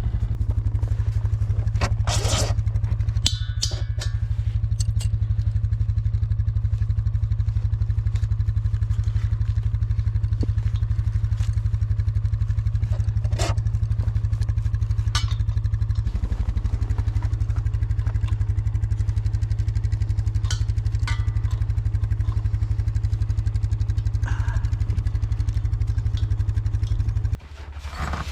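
An engine idling steadily with a fast, even pulse, while a few knocks and clatters sound over it. The engine sound drops away abruptly near the end.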